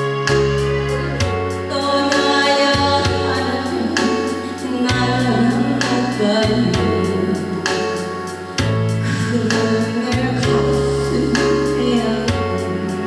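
Korean pop song with singing over a steady beat and a bass line.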